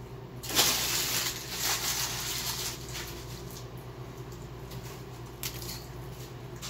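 A man chewing a Wendy's burger close to the microphone, with small wet clicks and smacks. A broad rustling noise comes in about half a second in and fades out over the next two seconds, over a steady low hum.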